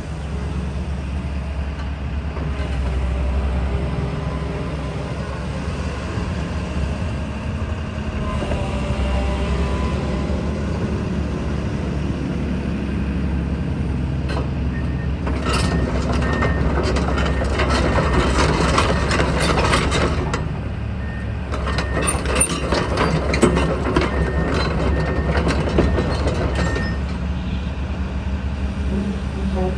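Komatsu PC210LC excavator's diesel engine running steadily, with two long stretches of dense clanking and squealing, first about halfway in and again until near the end, typical of its steel tracks moving.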